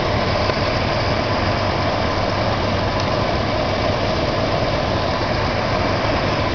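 A 1985 Dodge Ram D100's 318 V8 idling smoothly and steadily, heard close up at the air cleaner under the open hood, warming up after a cold start.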